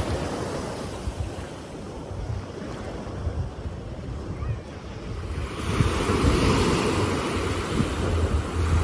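Sea surf washing onto a beach, with wind rumbling on the microphone. The wash ebbs away over the first few seconds, then a new wave surges in a bit past halfway.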